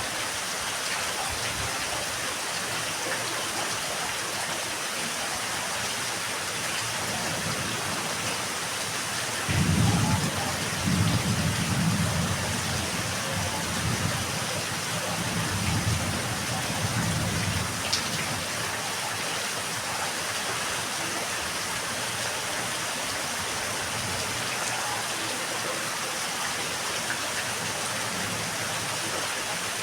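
Steady rain falling, an even hiss throughout. About ten seconds in, a low rumble of thunder rolls in several swells for about eight seconds; it is the loudest part.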